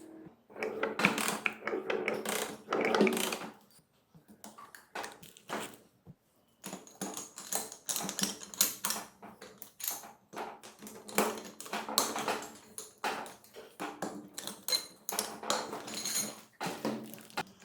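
Hand tools and metal engine parts clicking, tapping and clanking irregularly, as in hands-on engine work. A quiet pause of a few seconds comes a few seconds in.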